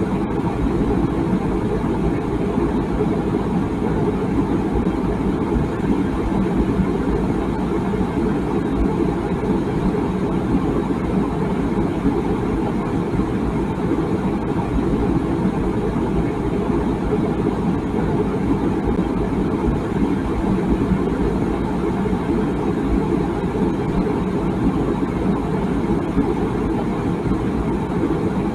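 Water boiling in a tea kettle: a steady, low-pitched rush with no whistle.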